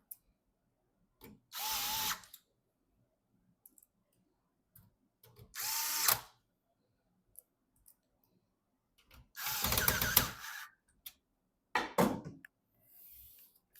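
Small electric screwdriver driving screws in three short runs a few seconds apart, followed by a briefer fourth run near the end.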